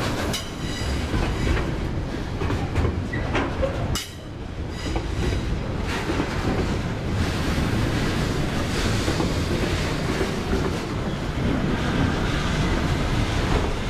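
Container flat wagons of an intermodal freight train rolling past: a steady low rumble with sharp clacks as the wheels pass over rail joints, the clacks heaviest in the first few seconds.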